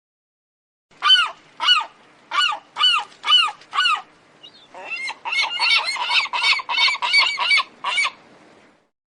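Bird calls: six separate calls about half a second apart, then a fast run of about a dozen calls in quick succession.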